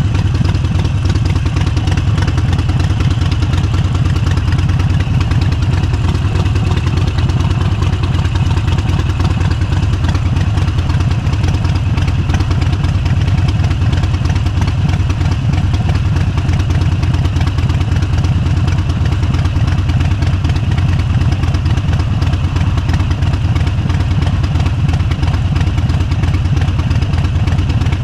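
Motorcycle engine running steadily, low-pitched and even, with no sharp revving.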